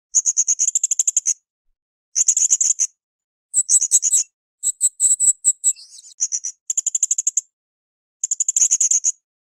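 Blue-crowned hanging parrot (srindit) calling in shrill, high-pitched trills of rapid chips, about a dozen a second. It gives about seven bursts of up to a second or so, with short gaps between them, and a more varied, squeaky run in the middle.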